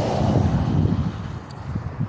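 Wind buffeting the microphone: an irregular low rumble that eases off in the second half.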